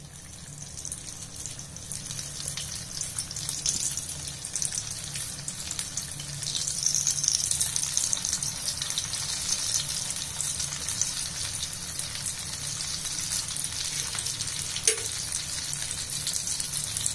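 Aloo rolls sizzling as they fry in hot refined oil in a pan; the sizzle gets louder about six seconds in, once more rolls are in the oil. One sharp click near the end.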